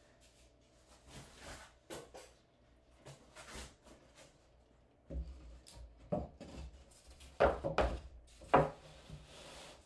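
Wood being handled: irregular knocks and scrapes, louder and busier in the second half, with a cluster of sharp knocks about seven and a half to eight and a half seconds in.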